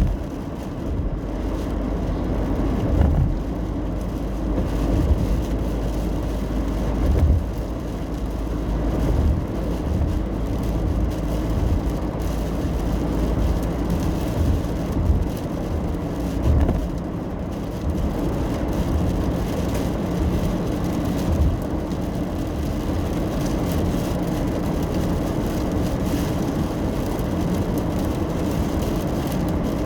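Car cabin noise while driving in the rain: a steady low rumble of engine and tyres on the road, with brief low thumps every few seconds during the first two-thirds.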